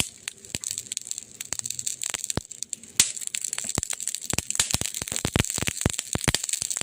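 Burning wood crackling in a fireplace: irregular sharp pops and snaps over a soft steady hiss, with one loud pop about three seconds in and the popping getting busier in the second half.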